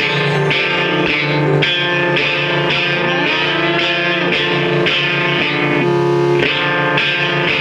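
Rock music with a distorted electric guitar played through effects, its chords changing in a steady rhythm about twice a second.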